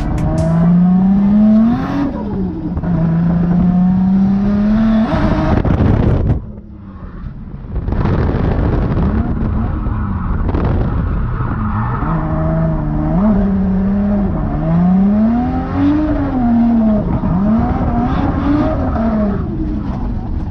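Toyota Chaser JZX90's turbocharged straight-six, heard from inside the cabin while drifting. The revs climb and fall again and again with the throttle, easing off briefly about six seconds in before coming back on, with tyres squealing.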